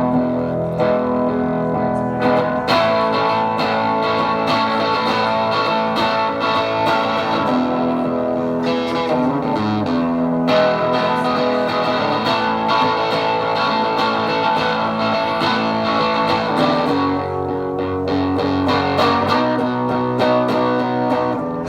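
Live rock band playing an instrumental break between verses, led by electric guitar with some distortion over a steady beat.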